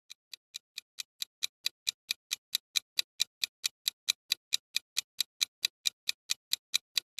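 Rapid, even ticking, about four to five sharp ticks a second, fading in over the first second and then holding steady.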